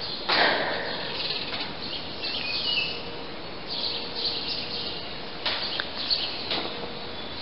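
Small birds chirping and twittering in short high notes over a quiet rural background. Two soft scuffs stand out, about half a second in and again after five seconds.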